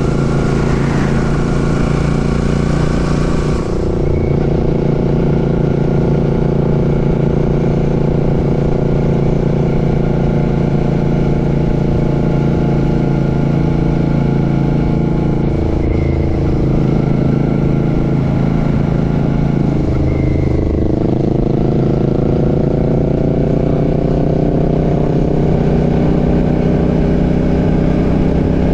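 Royal Enfield Classic 650's 648 cc parallel-twin engine running under way. The engine tone dips briefly twice past the middle, then climbs steadily in pitch as the bike accelerates. A loud hiss sits over the first few seconds.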